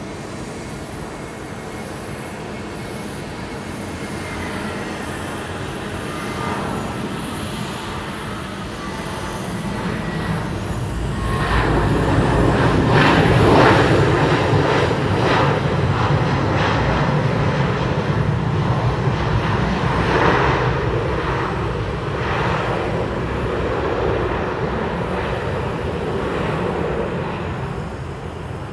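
Airbus A320 twin-engine jet passing close, its engine noise swelling over about ten seconds to a loud peak, holding loud for a long stretch, then easing off near the end.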